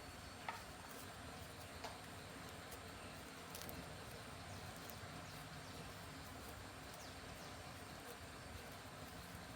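Faint steady background noise with a few light clicks or taps: one about half a second in, another near two seconds.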